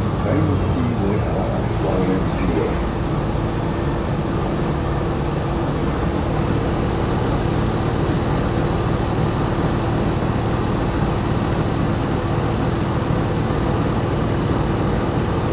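Steady running and road noise of a 2020 New Flyer XD60 articulated diesel bus under way, with a constant low hum and a faint steady tone.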